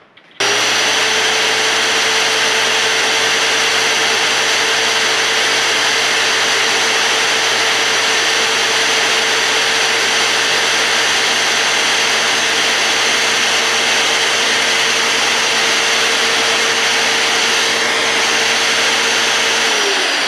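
Magnetic-base drill with an annular cutter boring through thick steel plate: a loud, steady motor whine that starts about half a second in, then dips in pitch and stops just before the end.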